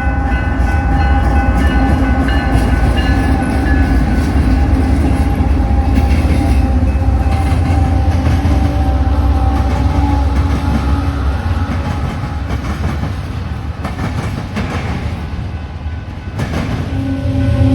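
A train passing close by: a heavy low rumble with several steady tones sounding over it, which fades about twelve seconds in. Near the end a new steady low-pitched tone comes in with the rumble.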